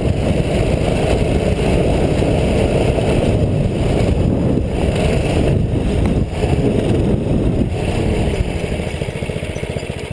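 Small single-cylinder mini bike engine running under way close to the microphone, with a steady rapid beat; it eases off slightly near the end.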